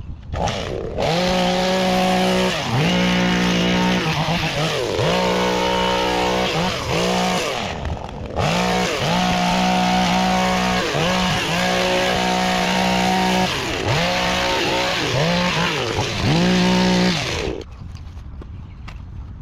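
Small two-stroke engine of a handheld gas power tool, run at high revs with the throttle repeatedly let off and squeezed again, so the whine dips and climbs many times. It cuts out briefly about eight seconds in and stops near the end.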